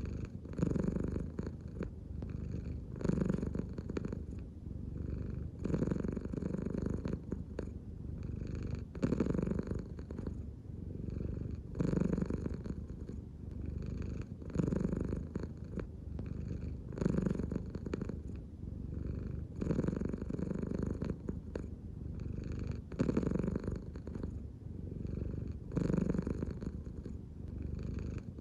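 American Shorthair cat purring continuously, the purr swelling and easing in a slow, regular rhythm with each breath, about once every three seconds.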